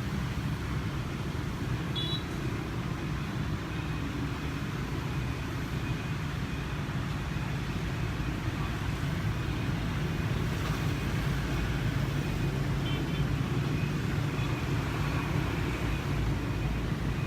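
Steady low rumble of road traffic, with a couple of brief faint high chirps, one about two seconds in and one near the thirteen-second mark.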